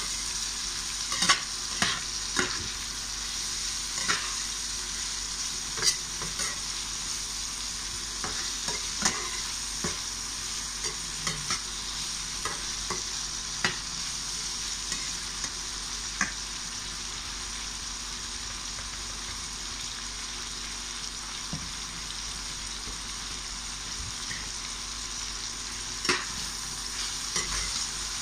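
Sliced chilies, tomato and garlic for sambal sizzling steadily in hot oil in a frying pan, with a spatula scraping and knocking against the pan as they are stirred. The knocks are frequent in the first half, thin out in the middle and pick up again near the end.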